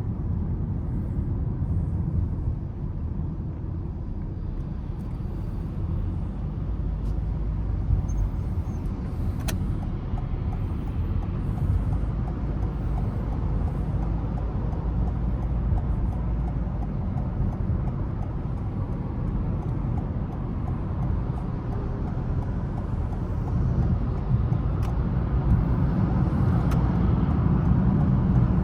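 Car driving in city traffic: steady low engine and tyre rumble, growing a little louder near the end.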